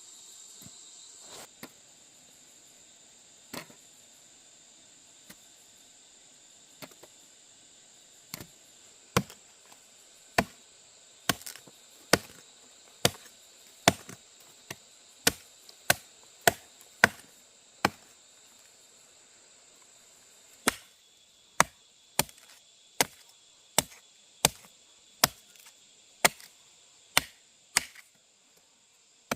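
Repeated chopping strokes of a blade striking, a few scattered at first and then a steady run of about one to two a second, with a short pause midway. Insects chirr steadily behind.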